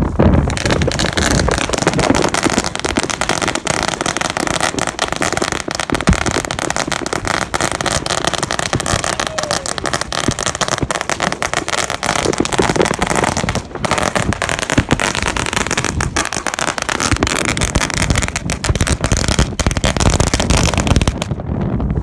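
Fireworks going off without pause: a dense, continuous crackle of many small bangs and pops that stops just before the end.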